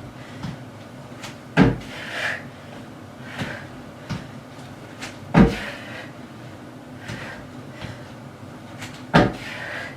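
Feet landing on a plyo box and on the floor during repeated box jumps: a loud thud about every four seconds, with softer landings and steps between.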